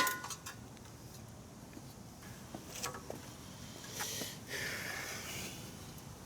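Faint handling noises from a lawn mower's recoil starter being worked on by hand: a few light clicks about three seconds in, then a soft scraping rustle for about a second and a half. The starter's spring is jammed and will not turn.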